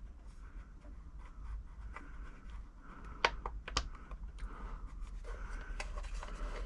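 Light clicks and scraping as a bobbin is worked onto the bobbin-winder spindle of a Silver 1139 sewing machine and turned to seat the spindle's pin in the bobbin's slot, with a few sharper clicks in the second half.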